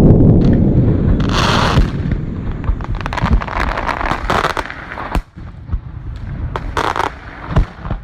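Fireworks going off: a heavy low rumble that fades over the first couple of seconds, then a crackling burst and scattered sharp bangs and crackles.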